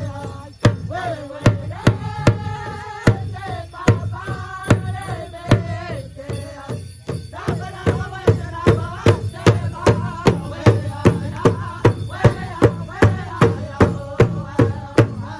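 Powwow drum group singing in high voices over a big drum struck in unison. The beat is slow and even at first, then doubles to about two and a half strikes a second around halfway through.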